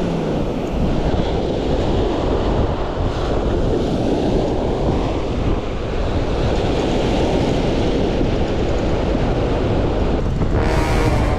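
Wind buffeting the microphone over breaking surf, a steady loud rush. A brief buzz cuts in near the end.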